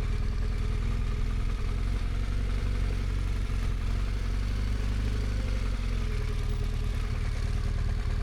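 BMW motorcycle engine running steadily at a low, even pace while riding, with the deep engine note dominating and a light haze of road and wind noise over it.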